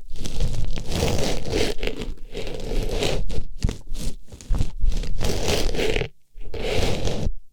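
Artificial flower pushed into and rubbed against a microphone's ear, giving close, scratchy rustling and scraping that stops briefly about six seconds in and then resumes.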